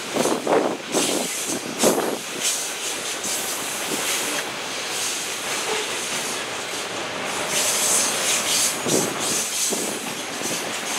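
CSX freight train cars rolling past with a steady noise of wheels on rail. Louder clacks come near the start and about nine seconds in, and a thin high wheel squeal comes about eight seconds in.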